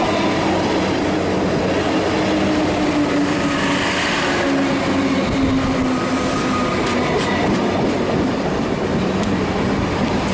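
A Comeng electric suburban train running past close by: a steady rumble of wheels on rail, with motor tones and a few sharp clicks from the wheels over the track a few seconds in.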